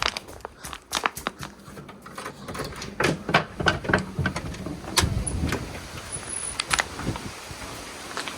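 A run of irregular knocks, clicks and rattles from someone moving about and handling things, with two short high squeaks in the middle.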